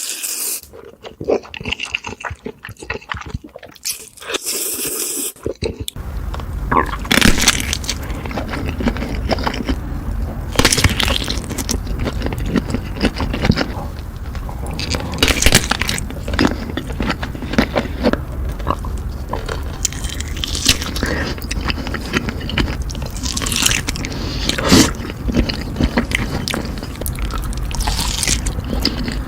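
Close-miked eating sounds: crunchy bites and chewing, with scraping, in many quick crackly strokes. About six seconds in, the sound changes to a denser run of crunching over a steady low hum.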